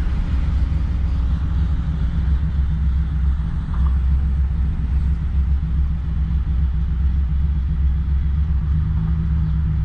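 Car on the move, with a steady low rumble of engine and road noise.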